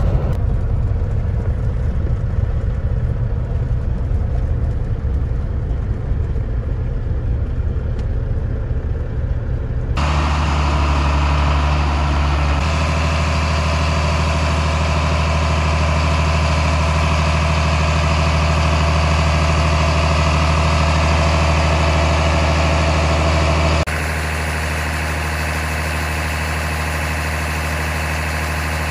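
Heavy diesel engines running in three cut-together shots: a low road drone, as from a loaded semi truck's cab, for about ten seconds, then a steadily running engine, with a cut to a quieter engine sound near the end.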